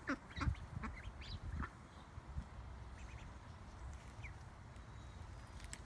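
Ducks calling: a quick run of short calls in the first second and a half or so, then a few scattered calls, over a steady low rumble.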